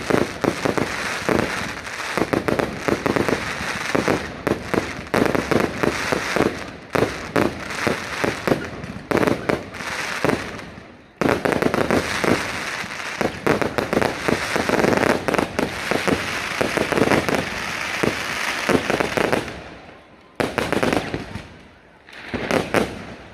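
Fireworks going off in a rapid, continuous barrage of bangs and crackles, dying away about 19 seconds in, followed by two shorter bursts near the end.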